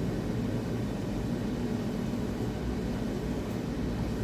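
Steady low rumbling background noise, even throughout, with no clear events.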